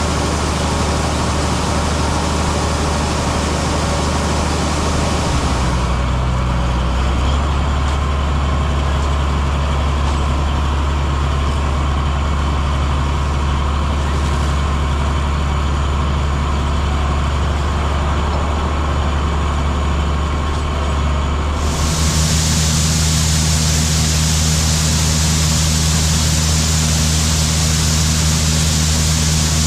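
Heavy diesel farm machinery running steadily under load, with a constant low engine drone. The sound changes abruptly twice, turning duller about six seconds in and brighter again about twenty-two seconds in.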